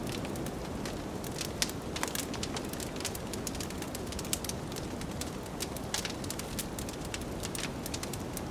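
Wood fire crackling in a fireplace, with irregular sharp pops and snaps over a steady low rush of blizzard wind.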